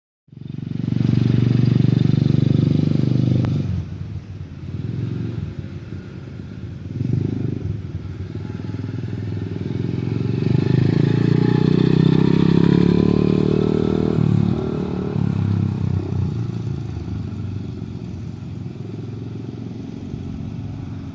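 Dirt bike engine running as it is ridden, changing pitch with the throttle. It is loudest in the first few seconds and again about ten to fourteen seconds in, and fades toward the end.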